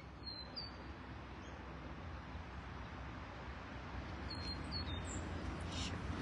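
Faint, short, high bird chirps over a steady outdoor background hiss. A few chirps come just after the start and a small cluster comes about four to five seconds in.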